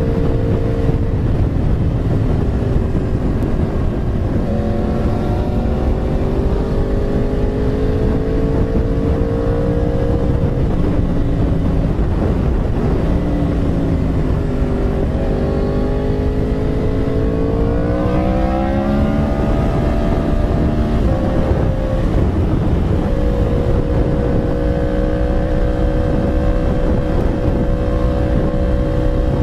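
Yamaha R1 sport bike's inline-four engine running under way, its pitch climbing slowly, dipping, and climbing again as the rider accelerates. About two-thirds of the way through the pitch drops suddenly, then holds steady at cruise. A steady rush of wind and road noise runs underneath.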